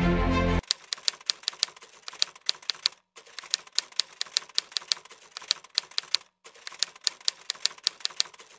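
Typewriter keys clacking in an irregular run of sharp strikes, several a second, with two brief pauses; music cuts off about half a second in just before the typing starts.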